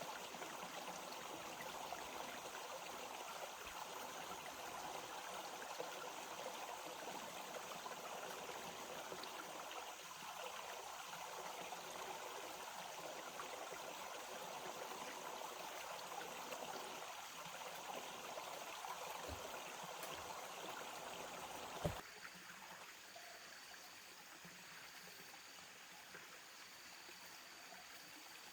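Stream water running steadily. About 22 seconds in there is a click, and the rushing drops to a quieter level.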